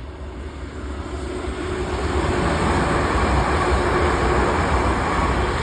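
A passenger train passing along the line, its rushing noise building over the first two or three seconds and then holding loud and steady, with a faint steady whine in it.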